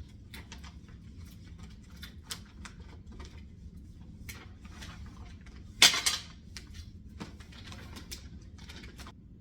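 Irregular light clicks and taps of small hard objects being handled, with one louder clatter about six seconds in.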